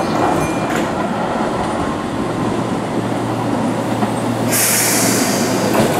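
Keihan electric trains running over curved track and points, the 13000 series coming in to the platform with a 2600 series alongside: a steady wheel rumble with a few clacks early on and a low hum. A short, loud hiss comes about four and a half seconds in and lasts about a second.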